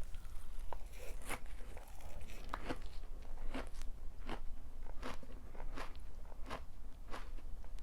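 A person chewing crunchy food close to the microphone, a crisp crunch about one and a half times a second.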